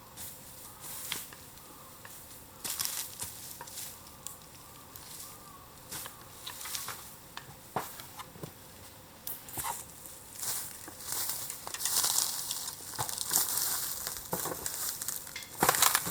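Bamboo burning in an open bonfire: irregular crackles and sharp pops over a hiss, getting busier in the second half.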